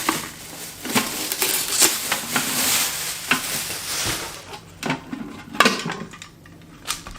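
A plastic humidifier and its packaging being handled: a stretch of rustling with small clicks, then a few separate knocks of hard plastic parts.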